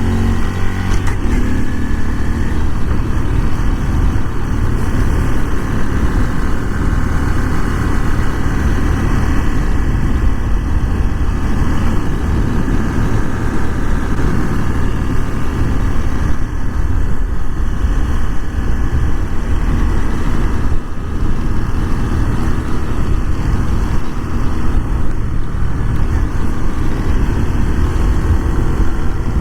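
Honda Super Cub 125's small single-cylinder engine running while the bike is ridden, its pitch shifting in the first couple of seconds, then mostly covered by a steady rush of wind on the microphone.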